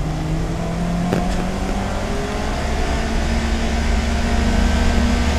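Mazda MX-5 Cup race car's four-cylinder engine heard from onboard under load, its note rising slowly as the car accelerates, over a heavy low rumble of road and wind.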